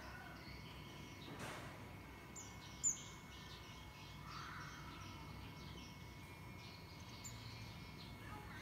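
Faint outdoor ambience with a few short, high bird chirps. The sharpest and loudest chirp comes about three seconds in.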